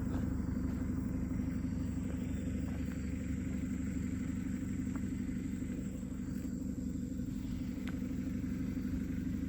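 Diesel engine of a heavy earthmoving machine running steadily at an even speed, with no revving.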